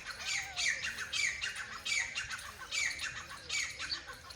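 A bird calling over and over, about six sharp calls, each a quick falling note, roughly one every 0.7 seconds.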